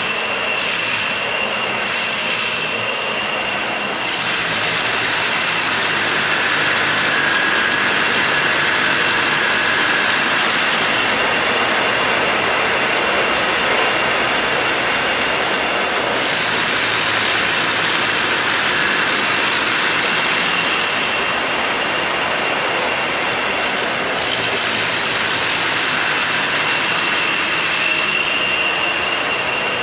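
Vacuum cleaner running on a shaggy rug: a steady high whine over a rush of air. The sound of the airflow shifts a few times as it works the pile.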